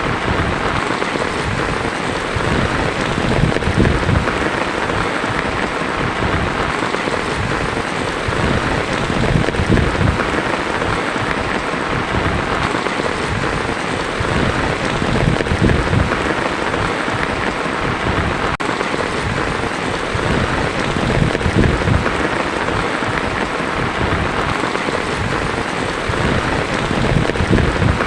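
Heavy rain drumming steadily on a tin roof, a dense unbroken patter, with low thunder rumbles swelling and fading every few seconds.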